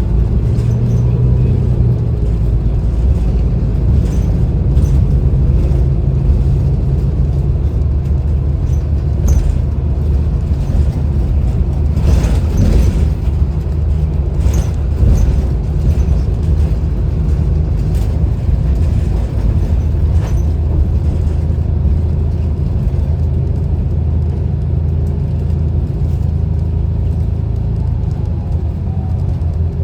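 City bus under way, heard from inside: a steady low rumble of engine and road, with scattered rattles and knocks, most around twelve to thirteen seconds in.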